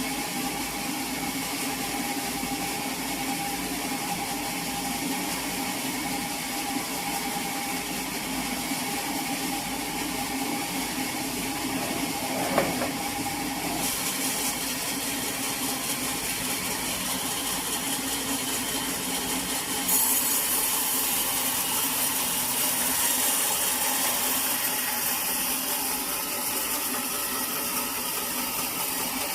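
Sawmill machinery running steadily with a saw cutting through a teak log. The high cutting hiss grows brighter about halfway through and louder again about two-thirds of the way in, with one sharp knock near the middle.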